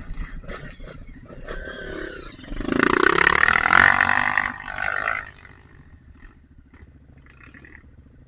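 Off-road trail motorcycle engine revving hard for about two and a half seconds, starting a couple of seconds in, then falling away to a much quieter background.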